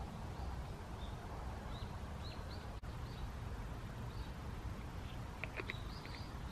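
Small bird calls: many short, faint high chirps repeating over a steady low rumble.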